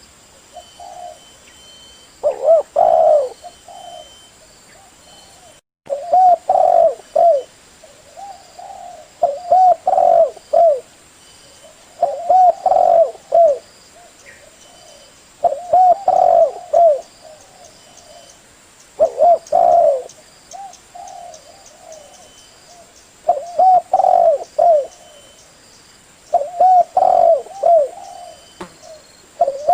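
Spotted dove (tekukur) cooing: loud, multi-note coo phrases repeated about every three to four seconds, with short pauses between them.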